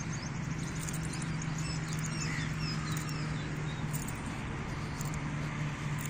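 Outdoor park ambience: small birds chirping in quick, short notes, mostly between about one and three and a half seconds in, over a steady low hum and background hiss.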